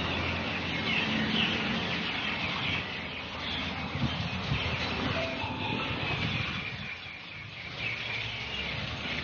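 Wild birds chirping, many short calls overlapping in a busy chorus over a steady outdoor background noise.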